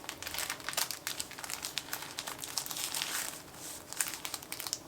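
Sticker sheets and their packaging being handled, crinkling and rustling with many small irregular clicks.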